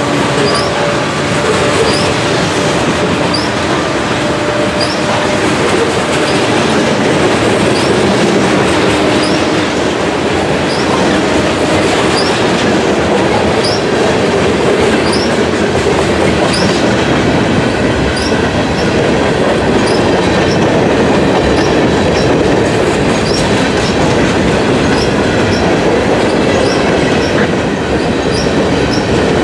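Freight train of covered hoppers and gondolas rolling steadily past: a loud, continuous rumble and clatter of steel wheels on rail.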